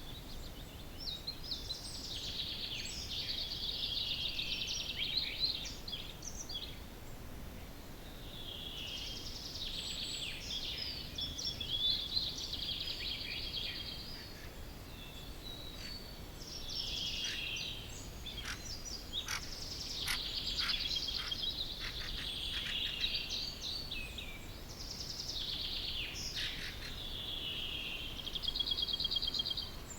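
Dawn chorus of several songbirds singing in overlapping phrases of a few seconds each, with rapid trills and short sharp notes, over a faint steady background hiss.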